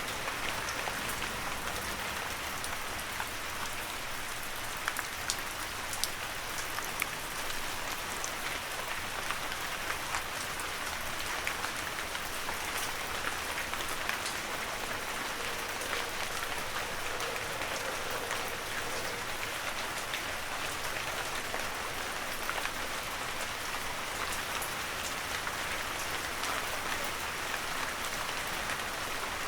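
Heavy rain falling steadily in a forest, a dense even hiss with scattered sharper drops.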